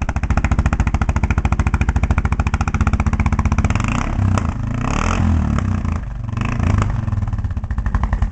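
Arctic Cat 650 H1 ATV's single-cylinder four-stroke engine running under throttle with a rapid, even exhaust beat. The revs rise and fall, with a burst of throttle about four seconds in and another about a second before the end.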